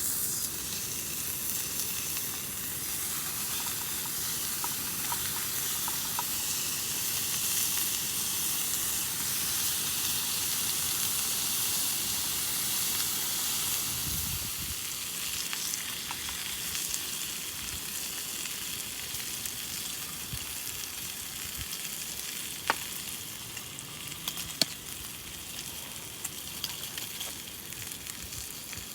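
Food frying in a pan: a steady sizzling hiss, with a few sharp pops about three-quarters of the way through.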